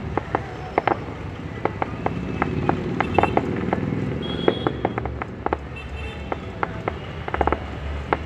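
Fireworks crackling and popping: many sharp, irregular cracks over a steady low rumble.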